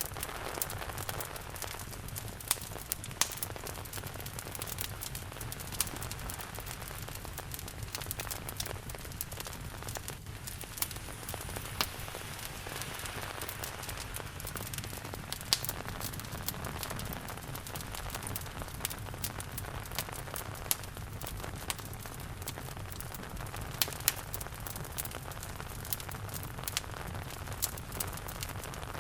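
Steady rain falling, with a wood fire crackling over it, giving sharp pops at irregular intervals.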